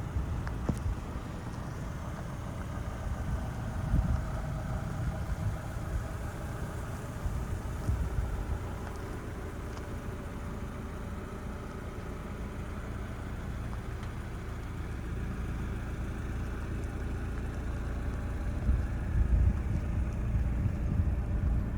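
1997 Mazda MX-5 Miata's 1.8-litre four-cylinder engine idling steadily, a little louder in the last few seconds.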